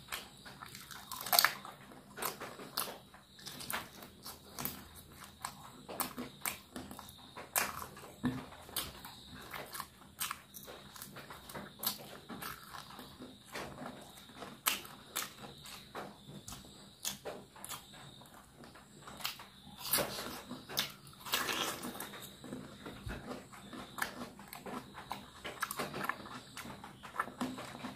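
A person chewing and sucking on cooked chicken feet close to the microphone: irregular wet mouth clicks and smacks throughout.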